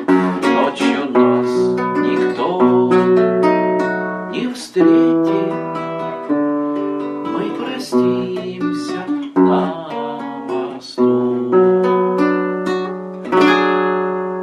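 Acoustic guitar playing the closing bars of the song, notes picked and chords strummed, ending on a final chord about thirteen seconds in that rings out and fades.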